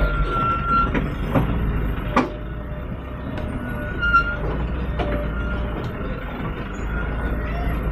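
Light diesel truck loaded with sand, its engine running with a steady low rumble. Several sharp knocks and rattles come through it, with a thin high whine that comes and goes.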